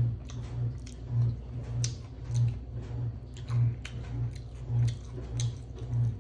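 Close-up chewing and sticky, crackling mouth sounds of fried chicken being eaten, with scattered small clicks. Under it runs a steady low thumping beat a little under twice a second.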